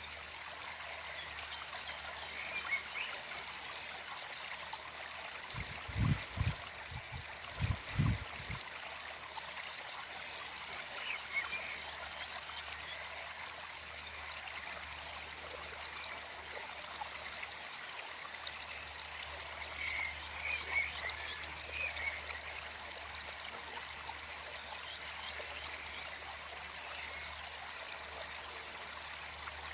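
Forest stream flowing steadily, with short clusters of small animal calls repeating every several seconds. Around six and eight seconds in come two pairs of low thumps.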